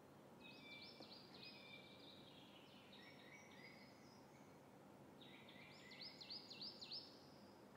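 Faint birdsong over a quiet background hiss: a run of quick, high chirping notes, then a second run a couple of seconds later.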